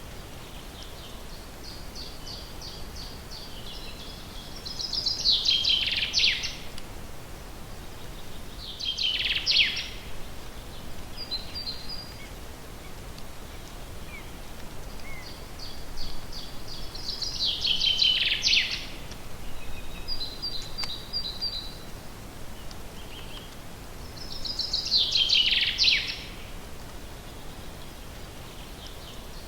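A songbird singing the same song phrase over and over, about every seven seconds: a run of rapid high notes that builds into a louder burst sweeping downward, with short chirps in between, over a steady background hiss.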